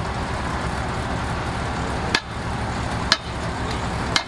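Heavy diesel engine running steadily, with three sharp metal knocks about a second apart in the second half, of the kind made by hammering during work on a bulldozer's thrown track.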